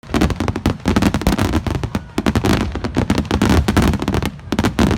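Fireworks going off in a dense, rapid barrage of bangs and crackles.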